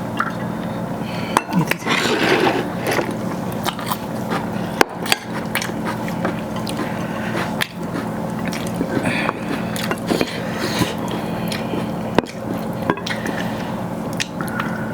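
Close-up eating sounds of a mouthful of rice and chicken gravy: wet chewing and lip smacks, with scattered sharp clicks of dishes or utensils. A steady low hum runs underneath.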